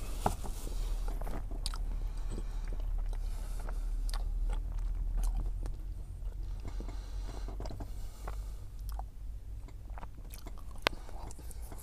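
A person biting and chewing a chocolate-striped pastry tube filled with sweet curd, with small scattered mouth clicks over a steady low rumble. One sharp click stands out near the end.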